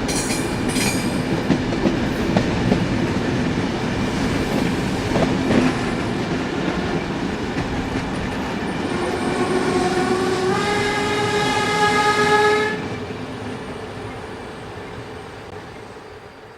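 Train running on the rails with steady wheel noise and a few clicks. About nine seconds in, a train horn sounds for roughly four seconds, its pitch rising slightly and then holding before it cuts off, and the train noise then fades away.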